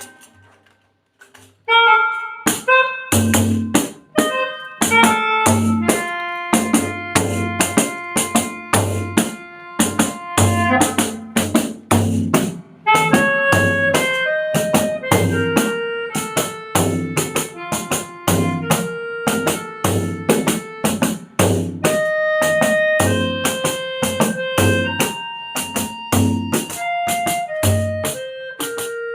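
Melodica playing a melody of held notes over a backing track with a steady drum beat, starting after a second or two of near silence.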